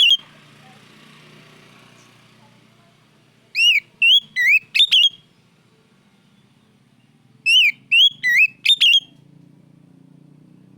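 Oriental magpie-robin (kacer) singing loud, clear whistled phrases: two bursts of about five sharp, swooping notes each, a few seconds apart, with pauses between.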